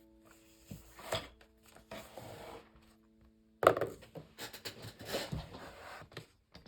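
Pencil scratching on sketchbook paper in short, irregular strokes, with a sharp knock about three and a half seconds in, after which the strokes come thicker.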